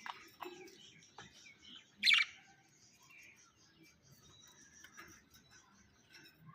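Pet budgerigars chirping and chattering, with one loud, sharp call about two seconds in.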